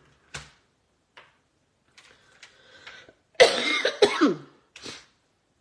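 A woman coughing, two loud coughs in quick succession about three and a half seconds in, followed by a smaller one; a few faint clicks come before.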